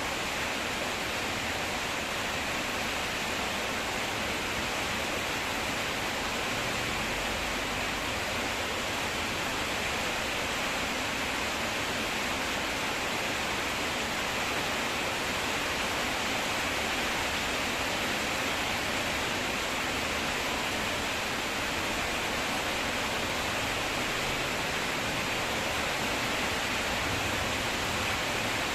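Steady rain, an even hiss with no separate drops or other events standing out.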